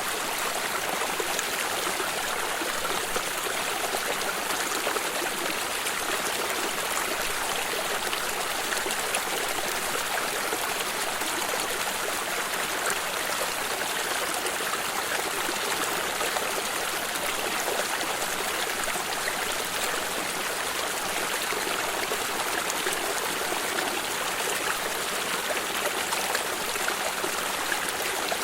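A stream of water running and trickling over stones, a steady even rush without pauses.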